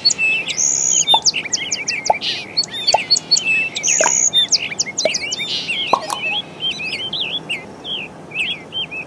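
Small birds chirping and tweeting, many quick overlapping calls, over a steady background hiss.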